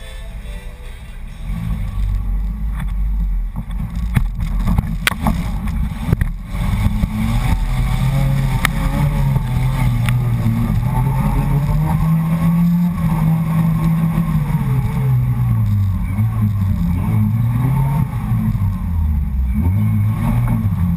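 Off-road 4x4's engine running under load in deep mud, its pitch rising and falling as the throttle is worked, with a low rumble underneath. A few sharp knocks come about four to six seconds in.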